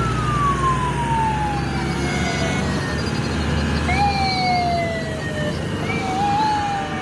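A high whine that glides slowly down in pitch, dropping away three times, each time starting higher again, over a steady low rumble.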